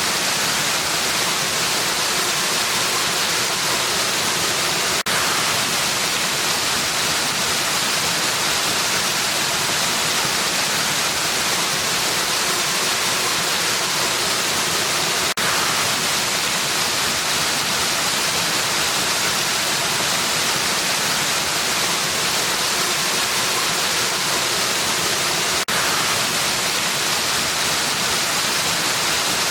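Waterfall rushing in a steady, even roar of falling water. There is a very brief dip in level about every ten seconds.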